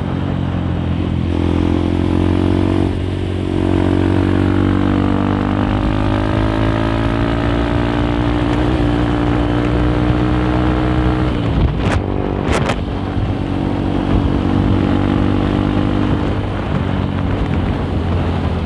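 Honda CRF150L single-cylinder four-stroke engine with a Nofifumi Torc aftermarket exhaust, running under way. Its note climbs slowly as the bike accelerates, drops off about eleven seconds in, then holds steady. A few sharp clicks come just after the drop.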